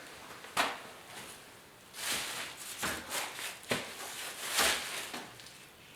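Scattered handling noises from work on a motorcycle: a sharp click about half a second in, then several short rustles and light knocks.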